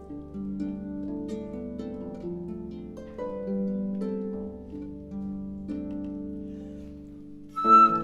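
Clàrsach (Celtic harp) playing plucked notes that ring on and overlap; near the end a flute comes in louder, with higher notes.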